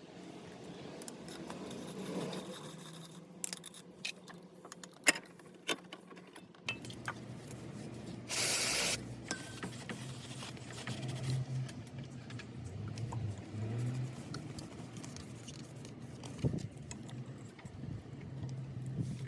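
Hand tools and small metal scooter parts clicking, clinking and scraping during clutch work, over a low steady hum, with a short burst of hiss about eight seconds in.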